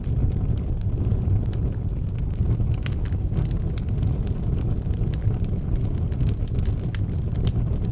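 Wood fire burning in an outdoor fireplace: a steady low rumble with frequent sharp crackles and pops scattered throughout.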